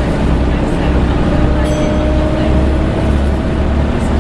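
Volvo B7TL bus's engine cooling fan hoovering loudly: a steady whine held at a near-constant pitch over the low rumble of the running engine, heard from inside the bus.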